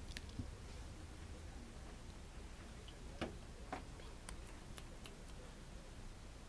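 A few faint, sharp clicks and taps scattered over a low steady hum, two of them a little louder a little past the middle.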